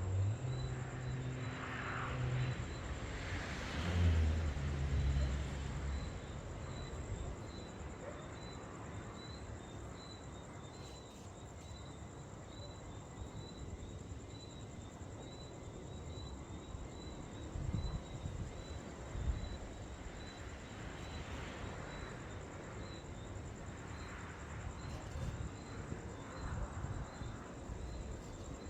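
A motor vehicle's engine hums past in the first six seconds or so. After that comes outdoor ambience: an irregular low rumbling noise and a steady high insect trill.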